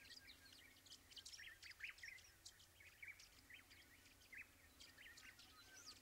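Faint bird chirps: many brief, high, irregular calls scattered over a quiet background.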